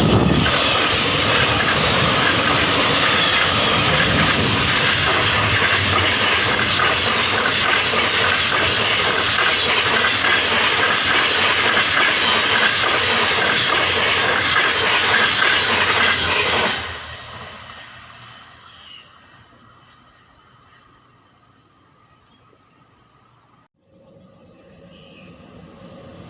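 Train running on its rails, a loud steady rush with some clatter, which fades away about seventeen seconds in to a faint background.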